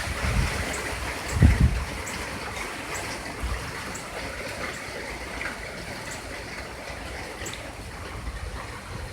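Heavy rain pouring steadily, an even hiss of falling water, with a low rumble about a second and a half in.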